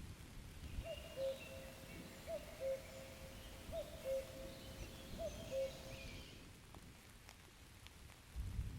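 A bird repeating a low two-note call four times, about once every second and a half, with faint higher bird chirps and a quiet woodland background.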